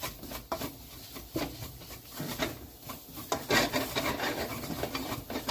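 A spoon scraping and stirring through a butter-and-flour roux in a pot, in irregular rasping strokes against the pot's bottom as the roux is mixed and cooked.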